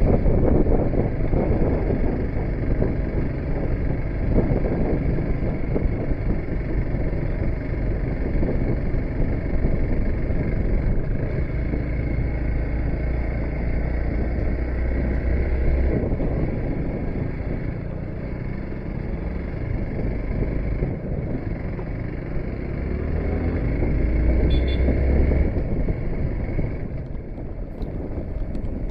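Motorcycle engine running under way on a rough, broken off-road track.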